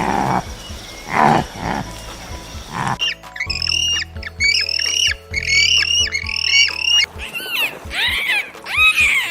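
Animal calls over background music: three rough, growl-like calls in the first three seconds, then a run of short, high, repeated calls.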